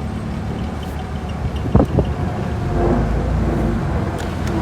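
A 2000 Jeep Wrangler's engine idling a little rough, with two sharp knocks about two seconds in. The engine note grows somewhat louder in the second half.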